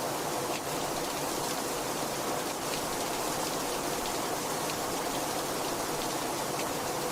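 Heavy rain falling steadily, a dense even hiss with scattered individual drop taps.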